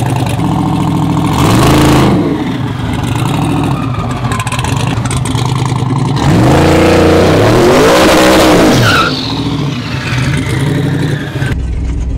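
Turbocharged LS V8 truck engine revving hard twice over a steady rumble: a short rise and fall about a second and a half in, then a longer, louder one from about six to nine seconds. A high falling whine follows just after the second rev.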